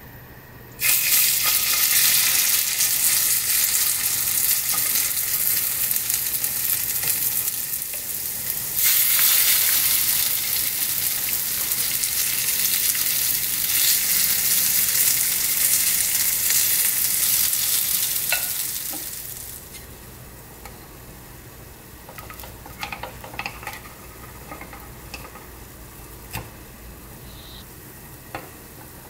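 Kimchi pancake batter sizzling loudly in hot oil in a frying pan as spoonfuls are dropped in and pressed down. The sizzle starts about a second in, briefly drops near the middle of the first half, and dies away about two-thirds through. What follows is a quiet background with a few light clicks.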